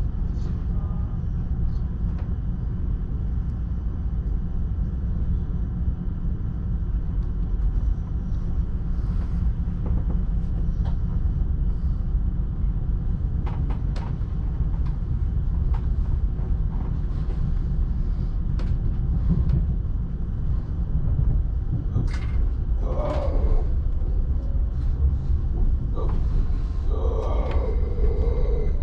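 ÖBB Railjet train running: a steady low rumble with scattered clicks and creaks.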